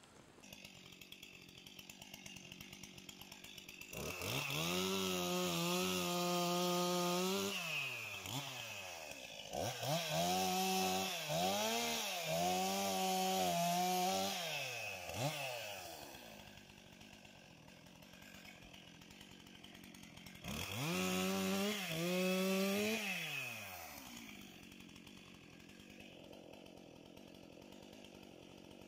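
Two-stroke chainsaw revving up three times and dropping back to idle between revs, as it cuts through the thin upper branches of a fallen small beech tree.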